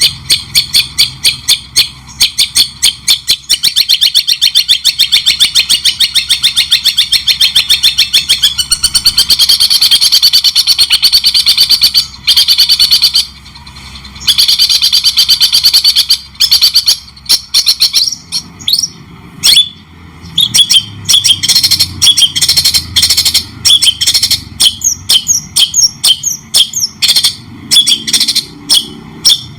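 White-rumped shama (murai batu) singing a fast, even run of sharp repeated notes that merges into a dense trill, breaks off briefly twice, then turns to more varied, separate notes.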